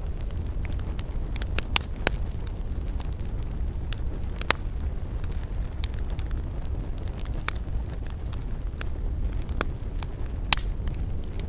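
Wood fire crackling in a fireplace: irregular sharp pops and snaps over a steady low rumble of burning. Several louder pops stand out, about 2, 4½, 7½ and 10½ seconds in.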